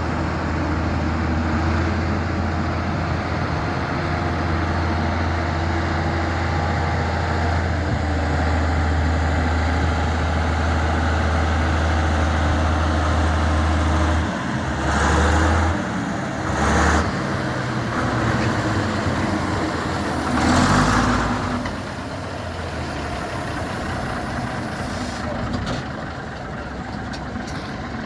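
A Scammell Pioneer's Gardner diesel engine idling with a steady low drone. About halfway through the sound changes and three short louder bursts follow, after which it runs on more quietly.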